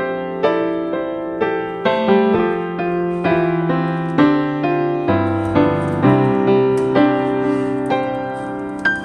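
Background piano music: a gentle melody of single struck notes, about two a second, each fading away.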